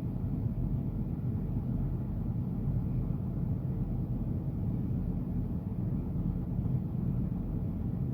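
Steady low rumble inside a semi-truck's cab, from the truck idling while parked.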